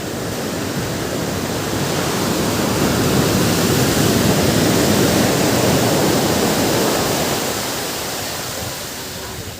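Ocean surf: a wave rushes in, building for about four seconds to a loud hissing peak, then washing back and fading.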